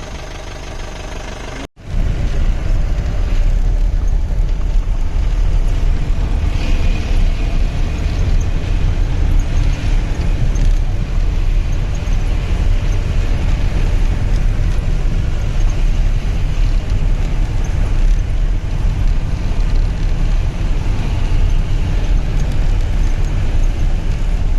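Safari jeep driving, a steady loud rumble of engine and road noise heard from on board, starting abruptly about two seconds in after a cut.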